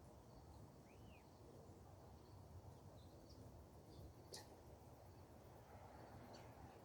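Near silence with a few faint bird chirps and a single faint click about four seconds in.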